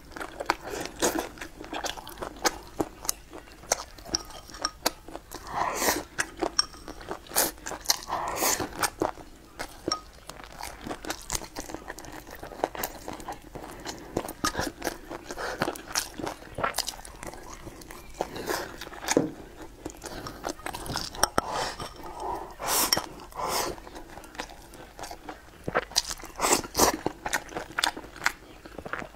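Close-miked mouth sounds of a person eating braised meat and rice with chopsticks: chewing, biting and wet lip smacks, with irregular sharp clicks and crunches throughout.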